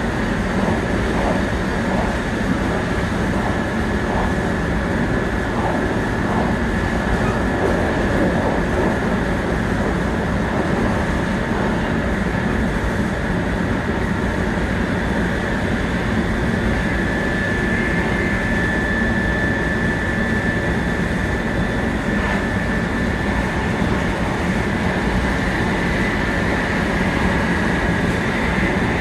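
700 series Shinkansen running at speed, heard inside the carriage: a steady rumble of wheels and air with a steady high whine that grows stronger about two-thirds of the way through. A few faint ticks sound in the first several seconds.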